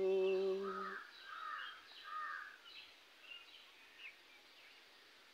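A person hums one held note that stops about a second in; then a bird gives three loud, harsh caws, and small birds chirp faintly.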